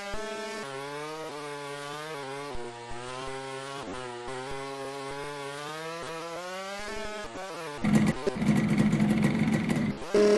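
Dirt bike engine running with its pitch rising and falling as the throttle is worked. About eight seconds in, a much louder, rougher engine sound cuts in abruptly.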